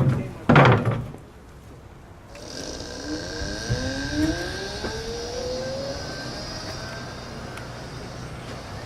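Electric motor scooter pulling away under power: two short loud sounds at the start, then the electric motor's whine rising in pitch over about three seconds as it accelerates, with a steady high whine above, settling into a steady cruise.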